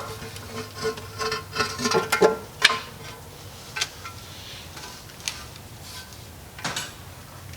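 Hand tools and metal engine parts clinking and clicking, a quick run of sharp clinks in the first three seconds, then a few scattered ones.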